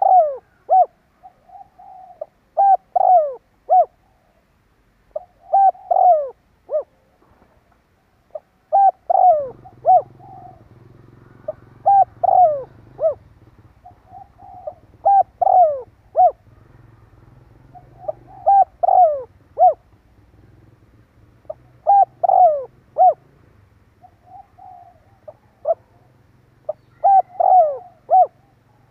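Spotted dove cooing over and over, a call track used as a decoy to draw wild doves: each phrase is a quick group of short falling coos, repeated every three to four seconds. A low steady hum comes in about nine seconds in.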